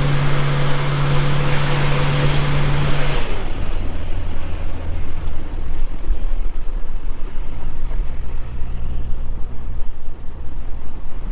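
A van driving on the road: engine drone with wind and road noise. About three seconds in, the hiss and the steady engine tone drop away suddenly, leaving a lower hum.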